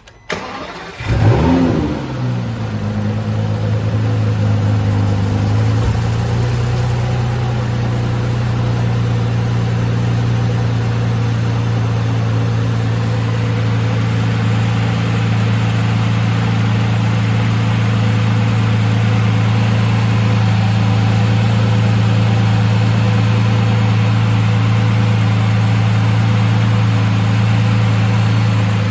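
Cold start of a 2017 Aston Martin DB11's twin-turbo V12. The starter cranks briefly, the engine catches with one quick rising-and-falling flare of revs, then settles into a steady, even idle.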